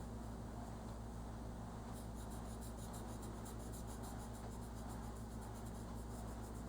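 Crayon rubbing back and forth on paper in quick light shading strokes, faster and more even from about two seconds in, over a steady low hum.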